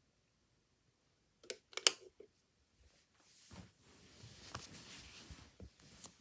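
A few sharp clicks, the loudest about two seconds in, then soft rustling with scattered small clicks.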